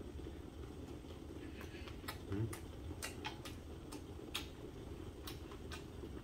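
A person chewing a bite of sausage, with a string of irregular wet mouth clicks and smacks, over a steady low rumble in the background.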